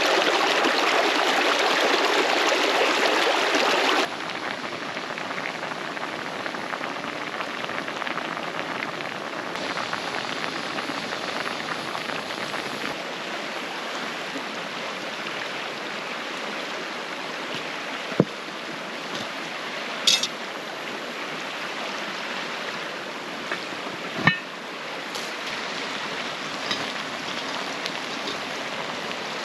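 Rushing water of a mountain creek, a steady wash that is louder for the first few seconds and then softer. A few short sharp clicks in the second half.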